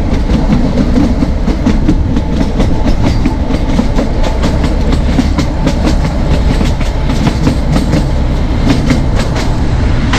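Narrow gauge train running, heard from on board: a steady low rumble with a constant, irregular clatter of wheels over the rail joints.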